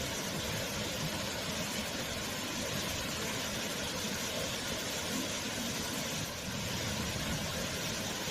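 Waterfall: a steady rush of falling water, with a brief slight dip about six seconds in.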